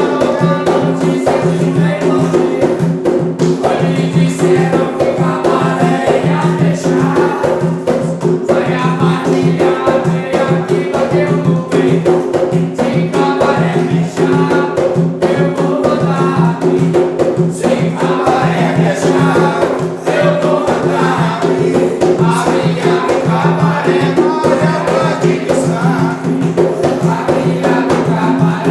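A group singing an Umbanda ponto together over steady hand percussion and rattles, with a driving, even beat.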